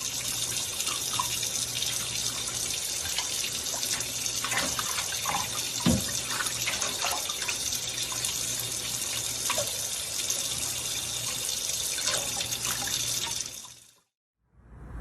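Water running steadily, with faint scattered drips and splashes, fading out near the end.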